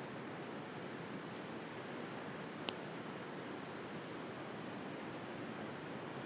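Wood bonfire crackling with faint scattered pops and one sharp, louder pop a little under halfway through, over a steady wash of sea surf.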